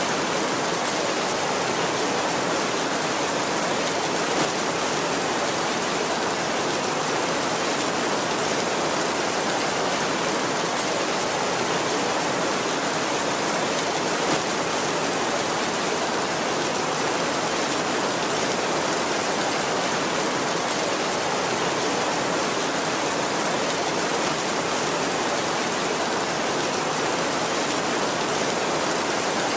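Heavy rain falling steadily on a tin roof: a dense, even hiss of drops with no thunder.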